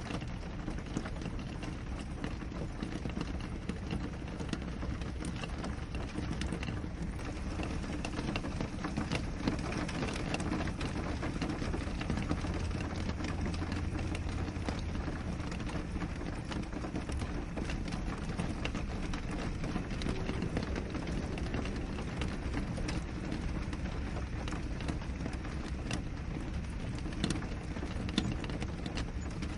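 Steady rain falling on a window pane, a constant hiss with many small drop taps. A low rumble swells briefly near the middle.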